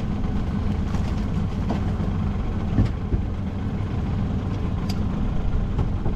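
Dinghy's outboard motor running steadily at low revs, with a few light knocks.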